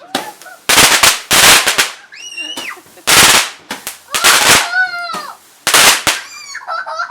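Consumer fireworks going off close by: a run of loud bangs and crackling bursts, about one every second.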